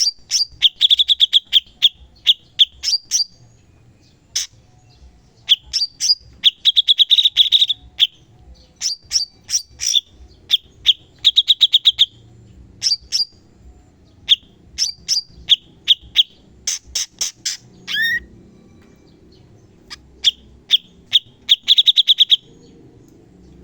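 Cucak cungkok songbird singing masteran-style, in rapid strings of sharp, clipped chattering notes repeated with short pauses, the loud fast bursts of notes known as tembakan. Near the middle comes one falling whistle.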